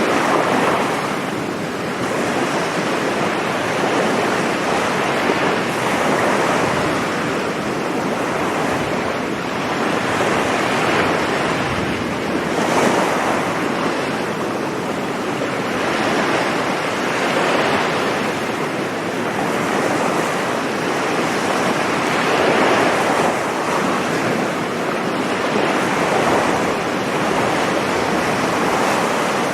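Sea surf washing continuously onto a beach, rising and easing every few seconds as successive waves break and run up.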